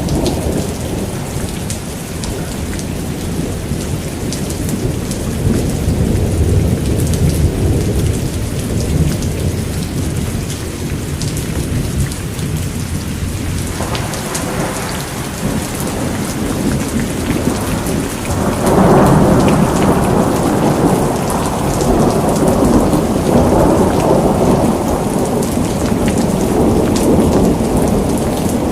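Steady heavy rain with rolling thunder, the low rumble swelling twice, the stronger swell starting about two-thirds of the way through.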